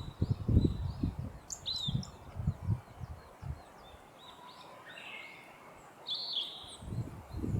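Blue-and-white flycatcher singing: separate short whistled phrases with sweeping, slurred notes, a quieter stretch in the middle. Bursts of low rumbling noise come over it in the first couple of seconds and again at the very end.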